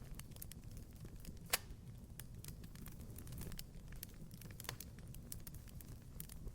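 Wood fire crackling in a fireplace: scattered small crackles over a low steady rumble, with one sharp pop about one and a half seconds in and a smaller one near the end.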